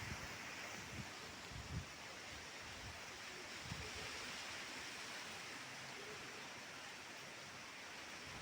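Steady hiss of heavy rain falling, with a few faint low gusts of wind on the microphone in the first two seconds.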